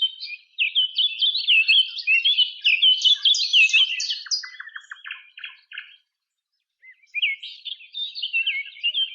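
Small songbird singing fast runs of high, quick-changing warbling notes. The song breaks off for about a second past the middle, then starts again.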